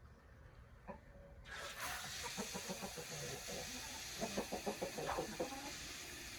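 Chickens clucking, a quick run of short calls a few seconds in, over a steady hiss that comes in suddenly about a second and a half in.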